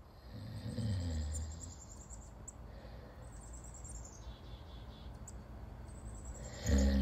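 Birds chirping in quick repeated trains of high notes over a faint low rumble. A loud, deep low sound sets in near the end.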